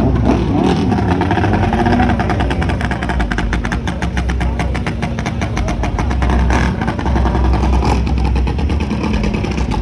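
Mini bike engines running hard at high revs, a loud, steady, rapid-firing buzz.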